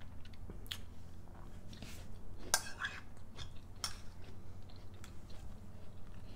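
Close-miked chewing and mouth sounds of a person eating yogurt with a cherry-chocolate topping and apple, with a few sharp clicks, the loudest about two and a half seconds in.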